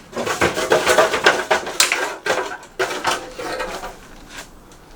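Metal parts and tools clattering and knocking, dense at first, then a few lighter knocks that die away.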